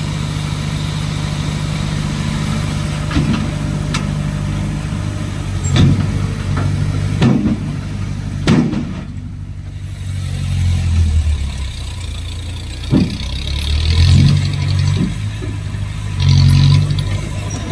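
Diesel engine of heavy earthmoving machinery running steadily, rising in loudness several times as it revs, with sharp clanks and knocks now and then.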